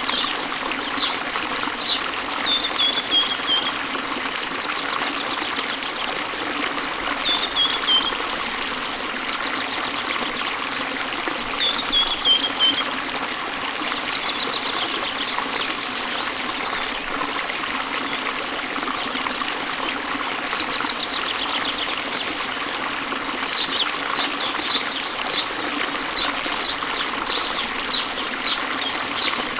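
Waterfall water running steadily, with small songbirds singing over it: short falling runs of high notes a few times, and a string of quick repeated chirps in the last several seconds.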